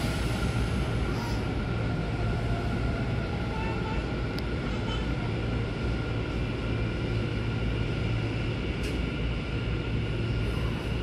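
Hanshin commuter train running between stations, heard inside the car: a steady low rumble with faint, steady whining tones above it, and a couple of faint clicks.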